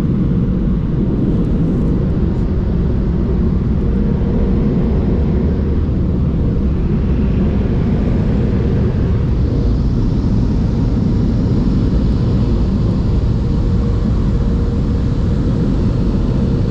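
Automatic car wash air dryer blowers running, a loud, steady rush of air with a constant hum.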